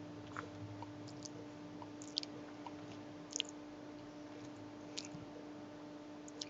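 Faint, scattered clicks and small handling noises, about five over several seconds, over a steady low hum.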